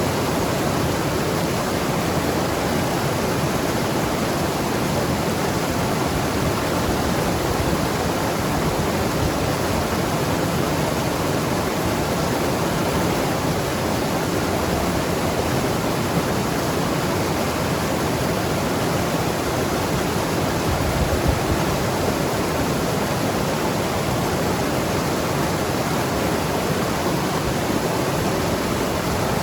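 Mountain river rushing and gurgling over rocks, a steady even rush of water.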